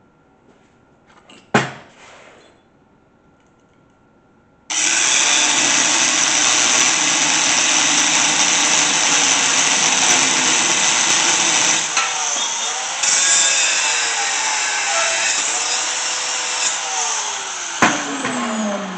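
An electric power tool working metal: it starts abruptly after a single knock, runs loud and steady for about thirteen seconds, then is switched off, and its motor winds down with a falling whine.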